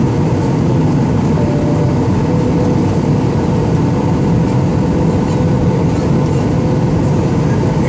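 Airliner cabin noise: the jet engines and the rush of air over the fuselage run loud and steady during the climb after takeoff. The noise is heavy in the low rumble, with a faint steady hum over it.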